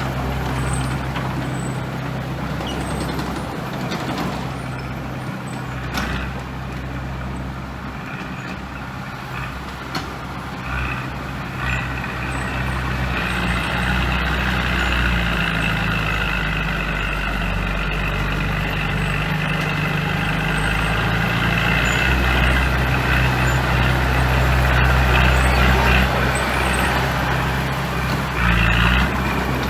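Heavy diesel engine of construction machinery (a bulldozer or dump truck) running steadily under work. It gets louder and harsher partway through, as if the machine is coming closer or working harder.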